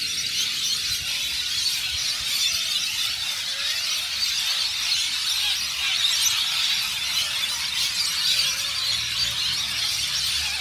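A large flock of birds roosting in trees, screeching and chattering all at once in a dense, continuous din, the sound of a big communal roost not yet settled for the night.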